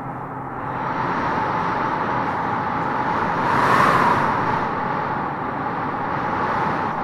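Howling wind gusting through trees, a steady rushing noise that swells into a stronger gust about four seconds in.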